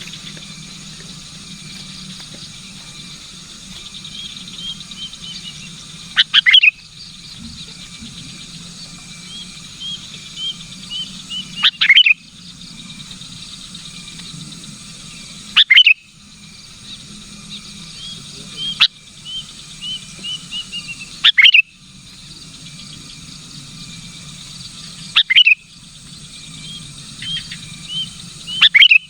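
Sooty-headed bulbul (kutilang) calling: runs of quick rising chirps, each ending in a loud sharp call, repeating every few seconds over a steady low hum.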